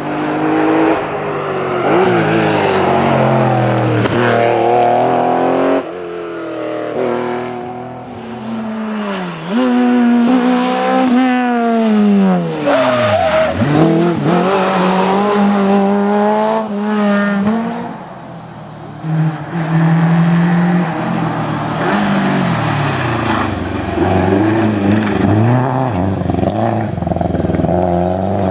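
Historic rally car engines revving hard, the pitch climbing and dropping again and again with gear changes, and one car passing with a sharp fall in pitch about halfway through.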